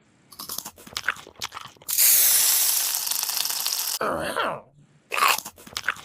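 Crunching and chewing sound effects for about two seconds, then a loud hiss that lasts about two seconds and slowly fades, followed by a short falling tone and another brief burst.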